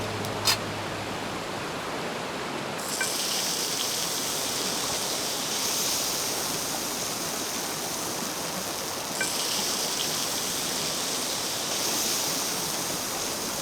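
Mountain river rushing past, a steady even hiss of flowing water. About three seconds in, a brighter, higher hiss comes in abruptly and swells and eases in slow waves; a single sharp click sounds about half a second in.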